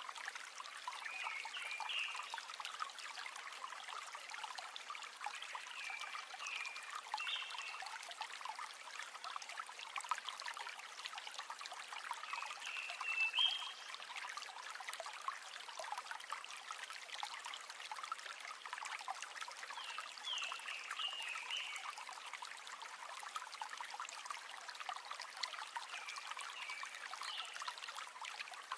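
River water flowing and trickling in a steady rush, with short high chirps every few seconds.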